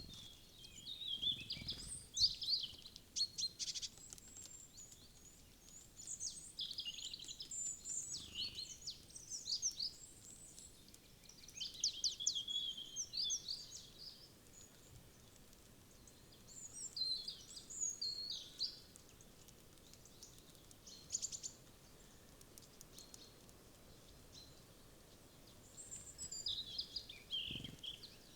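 Small wild birds chirping and calling in short bursts of quick, high notes every few seconds, with quieter gaps between bursts.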